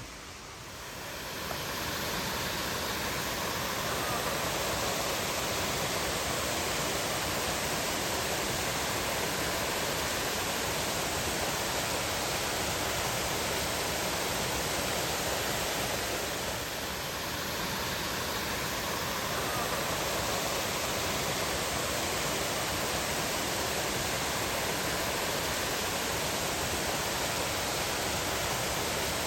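Waterfall on a woodland river: a steady rush of falling water that swells over the first couple of seconds and then holds even.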